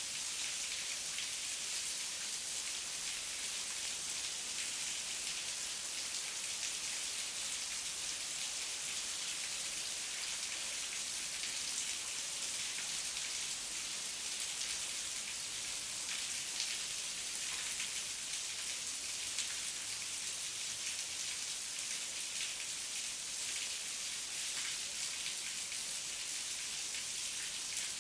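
Steady heavy rain falling, a dense hiss of many drops pattering on leaves and ground, with no thunder or other breaks.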